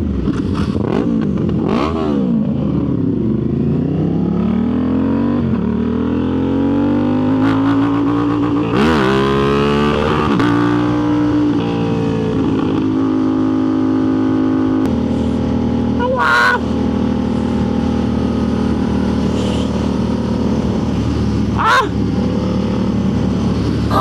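Motorcycle engine under way, rising in pitch as it accelerates, dropping at a gear change about nine seconds in and climbing again, then holding a steady cruising note.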